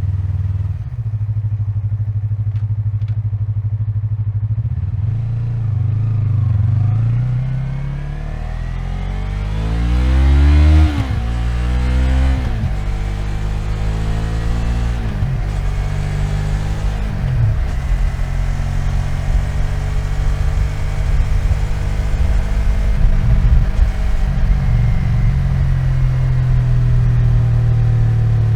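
Yamaha MT-03's parallel-twin engine, recorded on the bike: it runs steadily at low revs, then pulls away with one long rise in revs cut off by a gear change about eleven seconds in, followed by three shorter rises and drops as it shifts up, and settles into steady low-rev running with small throttle blips.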